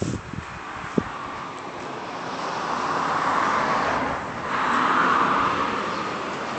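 Road traffic: two cars passing one after the other, their tyre and road noise swelling and fading twice. A couple of short clicks sound in the first second.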